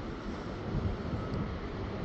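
Long Island Rail Road train passing, a steady low rumble with no horn or clear tones.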